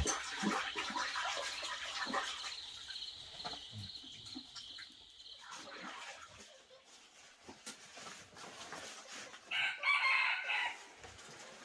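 Domestic chickens clucking around a homestead, with a rooster's call about ten seconds in. A high steady trill runs through the first half.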